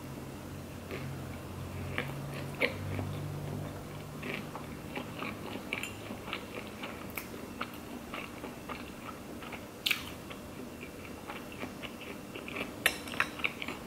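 Close-miked chewing of sushi, with soft, irregular wet mouth clicks. A few sharp clicks of metal chopsticks against a ceramic bowl, the loudest cluster near the end.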